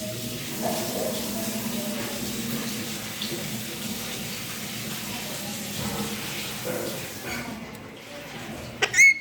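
A steady rushing noise like running water, and about nine seconds in a single short, loud rising squawk from a pet parrot.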